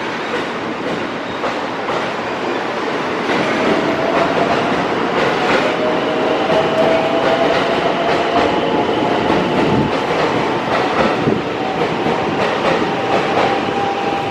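Rapid Marine Liner electric train departing. Its motor whine starts about three seconds in and rises slowly in pitch as it picks up speed, and its wheels click over the rail joints.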